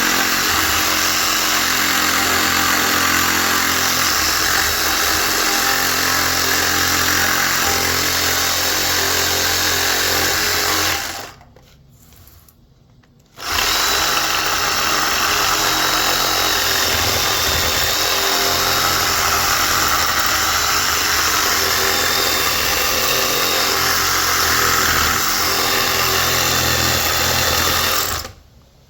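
A handheld power tool running steadily under load in two long runs. It stops for about two seconds a little before the middle, then starts again and cuts off near the end.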